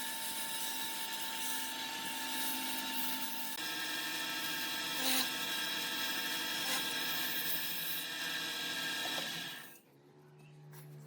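Electric woodworking power tool running with a steady high whine and rough cutting noise. It stops abruptly near the end, and another motor hum starts up and grows louder.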